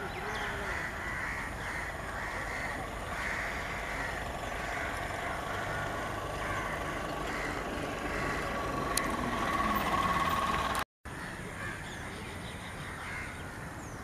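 Birds calling outdoors with harsh, caw-like calls repeated about every half second over a steady background hum. The sound drops out for a moment at an edit about eleven seconds in, and the calls go on after it.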